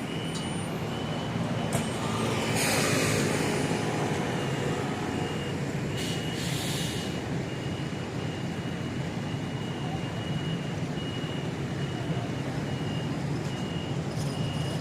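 City street traffic: vehicles running past with a steady low hum, and a high electronic beep repeating over and over. There are two short hisses, about two and a half seconds in and again about six seconds in.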